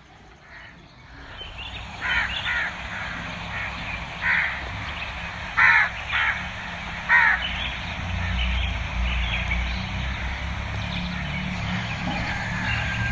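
Bird calls: about six short, harsh calls between about two and seven seconds in, over a steady low hum.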